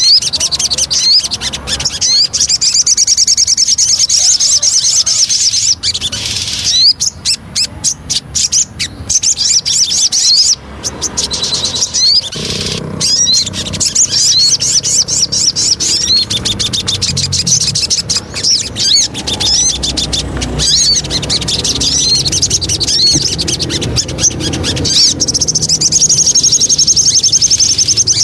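Sogon bird singing a fast, continuous run of high chirping notes, broken into choppier stop-start phrases for a few seconds in the middle: a pancingan song used to provoke caged sogon birds into singing.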